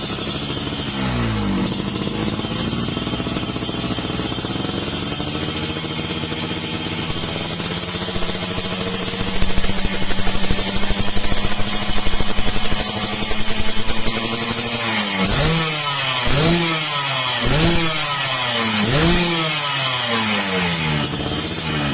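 Yamaha RX King's two-stroke single-cylinder engine running through an aftermarket exhaust. Its revs drop to a steady idle, and from about two-thirds of the way in the throttle is blipped about five times, each rev rising and falling quickly, about one a second.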